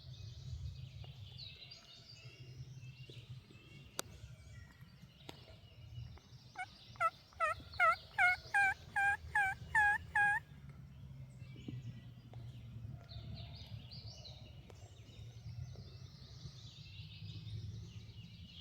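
Turkey yelping: a run of about ten loud yelps, roughly three a second, over three and a half seconds near the middle. Faint songbirds chirp throughout.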